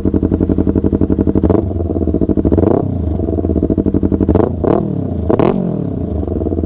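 Yamaha R3's 321 cc parallel-twin engine idling through an unbaffled Akrapovic full-system exhaust, with about five short throttle blips. The pitch jumps up and drops back each time, three of them in quick succession near the end. It has a bark to it.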